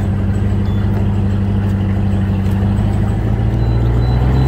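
Steady low engine hum, like a vehicle idling, whose pitch rises slightly near the end.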